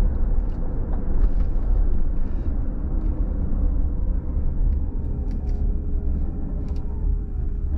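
Car driving along a road: a steady low rumble of road and engine noise, with a few faint ticks scattered through it.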